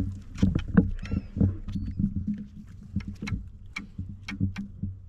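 Irregular knocks, taps and clicks against a fishing kayak's hull as a freshly landed fish and tackle are handled on board.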